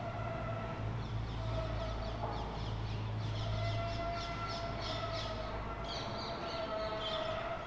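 Birds calling and chattering in quick, repeated high notes, over a steady low hum.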